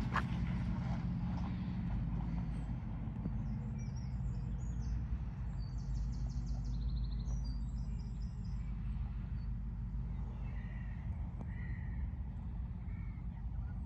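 Steady low rumble of car engines running at low speed, with a crow cawing about four times in the last few seconds.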